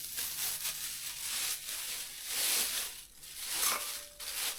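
Plastic bag crinkling and rustling in irregular swells as eggs are handled in it.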